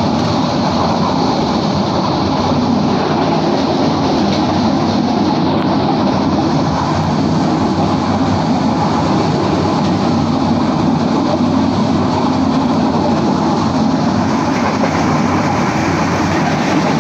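Passenger train running at speed, heard from inside the carriage: a steady, even noise of wheels on the rails and the moving coach.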